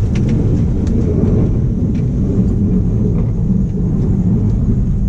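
1991 Dodge W350 pickup's 360 V8 engine running steadily as the truck plows snow, a deep even rumble.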